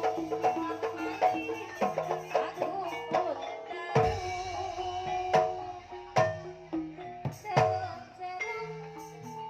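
Javanese gamelan music: struck metallophone notes ringing over hand-drum strokes, with several sharp drum hits.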